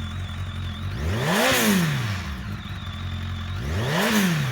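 2004 Kawasaki ZX-10R's 1000cc four-cylinder engine, fitted with an Akrapovic exhaust, idling just after start-up and revved twice: each blip rises in pitch and falls back to idle, about a second and a half in and again near the end.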